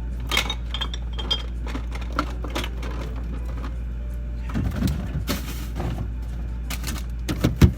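Glass and plastic containers clinking and knocking as food items are shuffled around inside a refrigerator during tidying. The knocks are scattered and irregular, with a brief rustling rush past the middle and a louder knock near the end.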